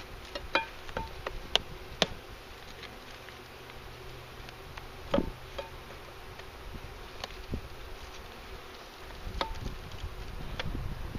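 Honeybees from a freshly installed package buzzing with a steady hum, with brief louder whines as single bees fly close. A few sharp knocks of handling gear come through, the loudest about two seconds in and again about five seconds in.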